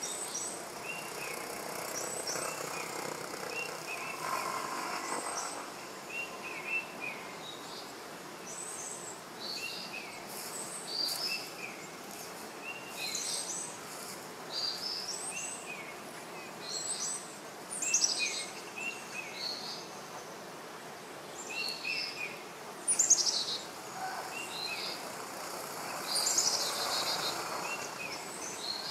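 Birds chirping: short falling notes repeated over and over, mixed with higher, sharper calls.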